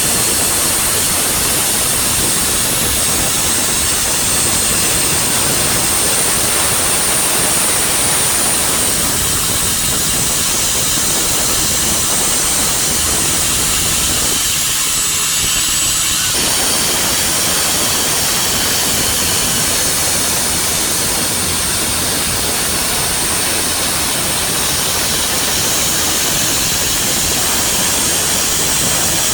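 Boat's motor running steadily while under way, under loud rushing noise of wind and water, with a thin high whine that wavers slightly in pitch.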